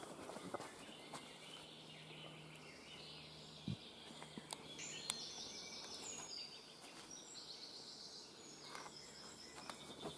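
Faint woodland birdsong: a small bird sings quick, high trilled phrases, plainest from about halfway through, over quiet forest ambience. A faint low hum and a few sharp clicks sit underneath.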